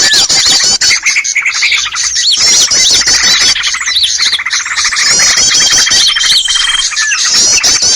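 Dense, noisy chorus of many small birds chattering and chirping over one another, a lure recording for trapping small birds. A long even trill runs through it about five seconds in.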